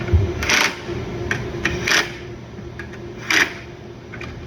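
Handling noise from car bumper parts being lifted and fitted: a low thump at the start, then three short clattering scrapes about a second and a half apart, over a steady low hum.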